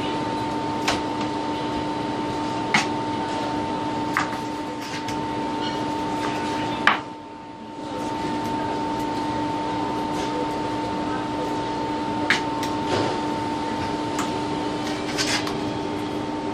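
Steady appliance hum over an even fan-like hiss, broken by a few sharp knocks of a knife against a cutting board as chicken wings are cut. The background drops away for about a second around seven seconds in.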